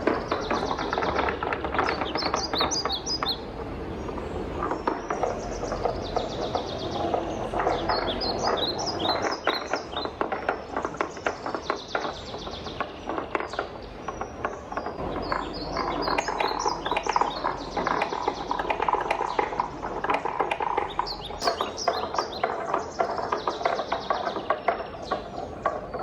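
Wooden balls rolling and clattering down a wooden marble-run track: a continuous stream of rapid clicks and knocks, with short bright rattling flurries every few seconds.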